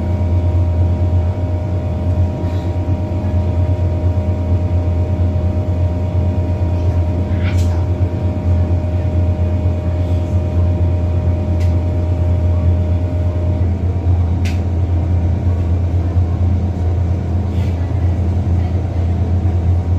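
MTR Disneyland Resort Line M-Train running, a steady low hum with several constant electrical tones over it; one tone shifts slightly about two-thirds of the way through, and a few faint clicks sound.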